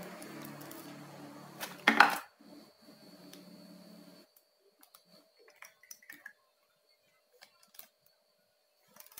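Small plastic sauce container being opened and handled: one sharp click about two seconds in, then scattered light clicks and taps. A low steady hum runs under the first four seconds.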